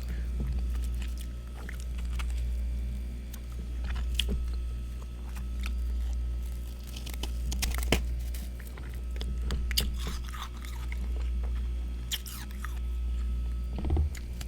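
Freezer frost being bitten and chewed: scattered sharp, crisp crunches between the teeth. Beneath them runs a steady low hum that swells and fades about every two seconds.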